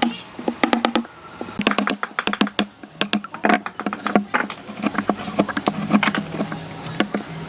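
Quick, irregular knocking and tapping of tools on wood, several sharp knocks a second, over a faint low hum.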